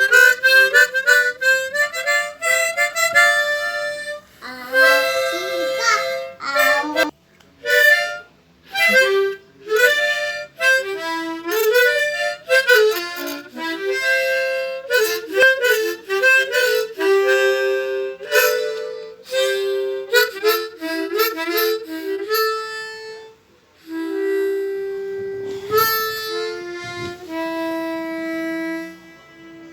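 Music: a solo harmonica playing a slow melody with notes bent up and down, broken by a few short pauses.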